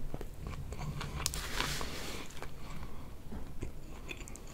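Close-miked chewing of a mouthful of crispy fried chicken sandwich, with crunching and small wet mouth clicks; the crunching is loudest about a second in.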